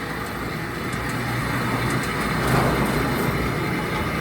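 Motorized garage gate running: a steady low rumble from the gate motor and the moving gate, swelling slightly about halfway through. The gate is catching on a screw as it travels.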